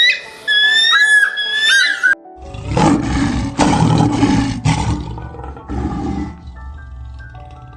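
Repeated whistled calls with bending pitch, then, after an abrupt cut about two seconds in, a large animal roaring several times over background music, which carries on alone after the roars stop.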